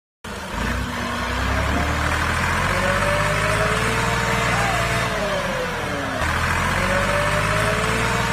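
Small motor running steadily, its whine drifting slowly up and down in pitch; it starts abruptly just after the beginning.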